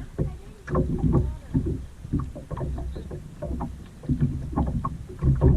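Paddling a kayak: paddle blades dipping and splashing in the water in repeated strokes, about one a second, with water sloshing and a low rumble on the microphone.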